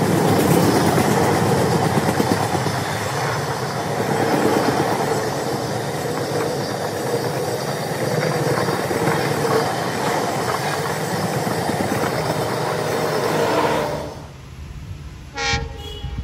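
Passenger train passing at speed on the line, a loud steady rush of wheels on rail with a faint steady whine, cutting off suddenly about 14 seconds in. A brief pitched tone sounds near the end.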